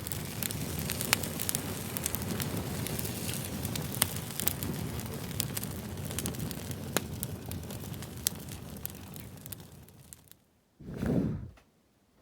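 Wood fire burning in a fireplace: a steady low rumble with sharp, irregular crackles and pops, fading out near the end. One short burst of sound follows shortly before the end.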